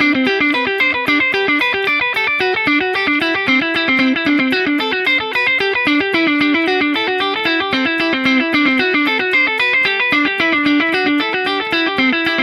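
Electric guitar played in a fast run of picked notes through the Donner Versa Yellow Fall 2 pedal in its digital delay mode, with level, tone and repeats turned up high so bright echoes of each note pile up behind the playing.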